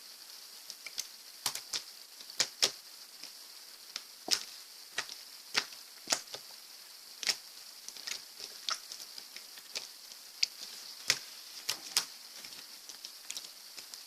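Slime being played with, giving irregular sharp clicking pops, one or two a second, over a steady hiss.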